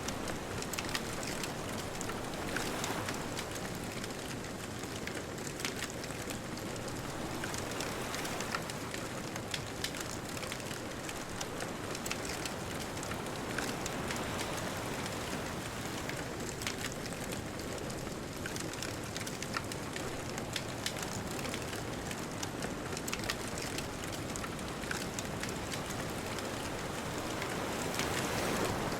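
Beach bonfire crackling, with frequent small sharp pops and snaps over a steady wash of distant ocean waves that swell and ease slowly, rising near the end.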